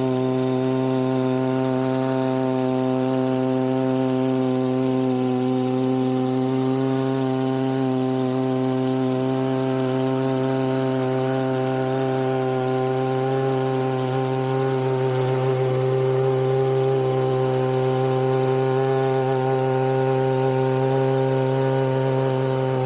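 Chainsaw mounted on a chainsaw mill, running under steady load through a log as it rips a 1-inch board, its engine note holding an even pitch.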